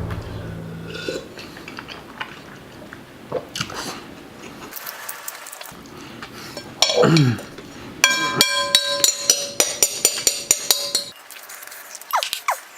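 A utensil clinking and scraping against a large bowl of fried rice during eating, with a quick run of ringing clinks about eight seconds in.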